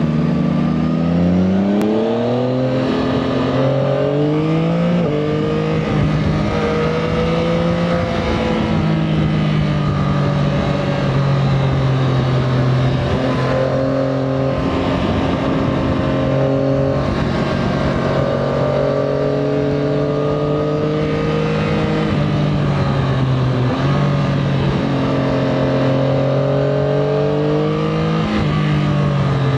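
Yamaha Tracer 9 GT+'s 890 cc inline three-cylinder engine pulling under way: revs climb in steps through the gears in the first few seconds, then hold a steady note. Near the end the revs drop and rise again.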